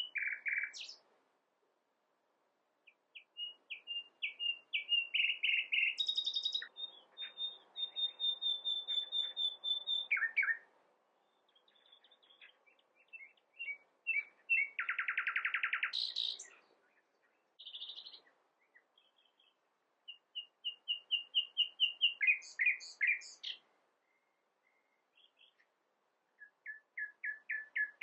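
Nightingale singing: a series of varied phrases of fast repeated notes, separated by short pauses of a second or two. The phrases include a rapid buzzing rattle about halfway through and quick runs of repeated whistles.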